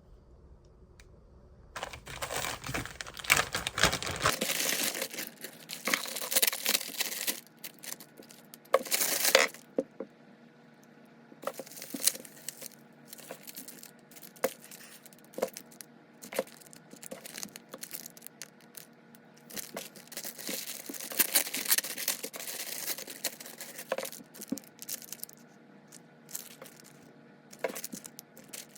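Hands handling crinkly material at close range: rustling, crinkling and tearing in stretches, with scattered small clicks and taps.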